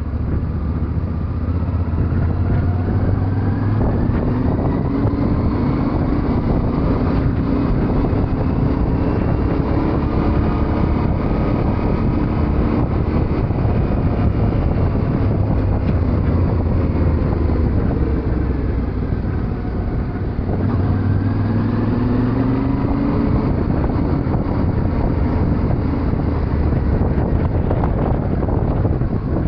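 Yamaha Ténéré 700's parallel-twin engine running under way, its pitch climbing and dropping back twice with the throttle, with wind buffeting the microphone.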